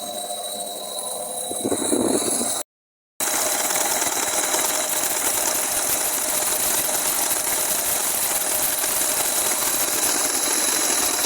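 A machine running steadily, dense and rattly with a few steady tones through it. The sound cuts out completely for about half a second, some two and a half seconds in.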